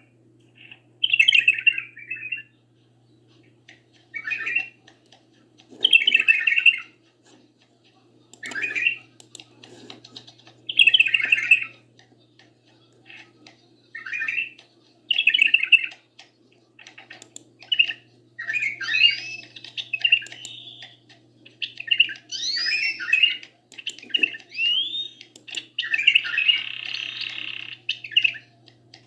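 Caged songbirds, a bulbul and a canary, singing: short chirpy phrases every second or two at first. About two-thirds of the way in the song grows denser, with rising and falling whistles and a buzzy trill near the end. A faint steady low hum runs underneath.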